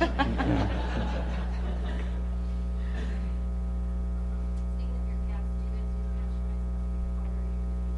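Steady electrical mains hum with a stack of overtones, from the recording or sound system. A brief burst of noise comes in the first second or two.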